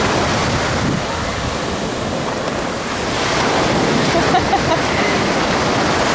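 Ocean surf washing onto a sandy beach, with wind buffeting the microphone; the wash swells again about three seconds in.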